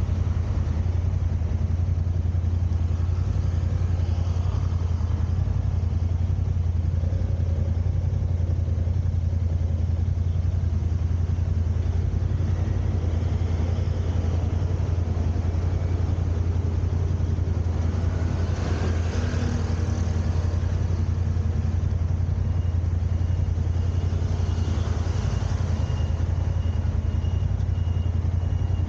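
Car driving in traffic: a steady low rumble of engine and road noise. About two-thirds of the way through another vehicle briefly swells past, and a faint thin high tone runs through the last several seconds.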